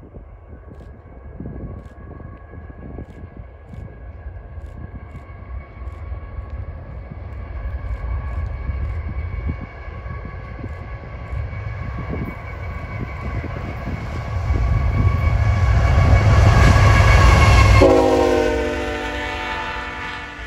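Norfolk Southern intermodal train led by GE ET44AC and ES44AC diesel locomotives approaches with its horn sounding steadily over a rising engine rumble. The locomotives pass at close range about 18 seconds in, when the horn's pitch drops sharply and keeps falling. The stacked container cars then roll by.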